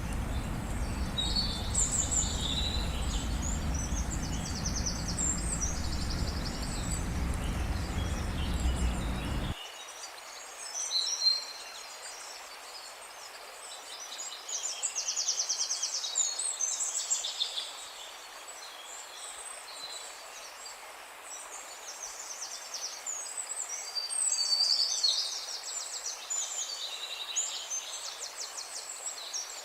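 Several small birds chirping and trilling in a chorus of high, quick calls, with no single song dominating. A low steady rumble underneath cuts off abruptly about ten seconds in, leaving only the birdsong over a faint hiss.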